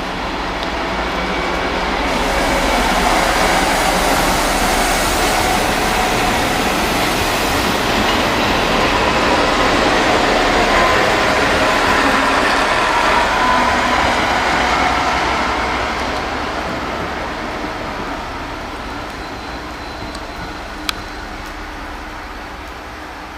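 Locomotive-hauled passenger train, a BB 67400 diesel and its long rake of coaches, passing close by. The rolling noise of the wheels on the rails builds, holds loud for about a dozen seconds, then fades away. There is one sharp click near the end.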